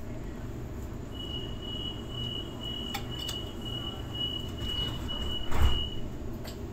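Steady low rumble inside a stopped electric passenger train at a station platform. A thin, high, steady whine starts about a second in and holds for about five seconds, and a single loud thump comes near the end.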